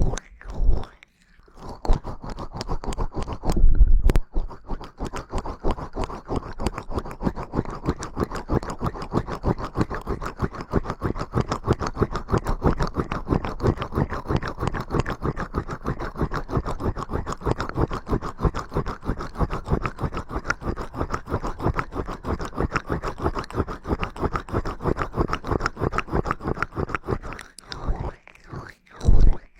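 Close-miked ASMR ear cleaning: a tool rubbing and scratching on the microphone in a fast, even run of many small clicks a second. There is a louder low bump about four seconds in.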